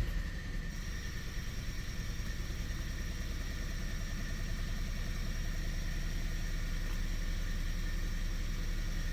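Kia 2.0 turbo four-cylinder engine idling steadily during an injector kill test. The engine is misfiring on two cylinders because of open injector circuits. A faint high-pitched whine comes in about a second in and holds.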